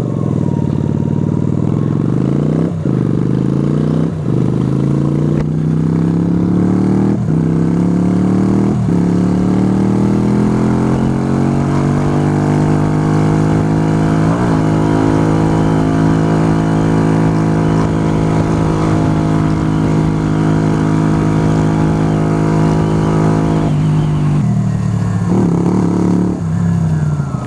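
Yamaha YBR125's single-cylinder four-stroke engine accelerating up through the gears: its pitch climbs and drops back at four gear changes, then holds steady at cruising speed before falling off as the bike slows near the end.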